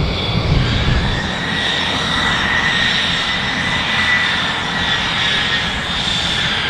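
Fixed-wing aircraft engine running steadily: a constant high whine over a broad rushing noise.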